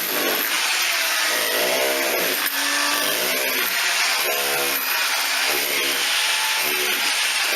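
Electric drill boring through a house wall, its motor pitch repeatedly sagging and recovering, about once a second, as the bit loads up.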